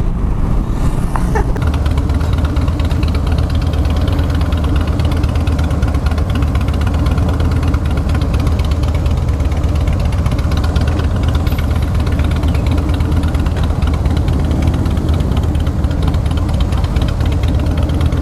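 Motorcycle engine running steadily with a deep, even drone, getting louder about a second and a half in.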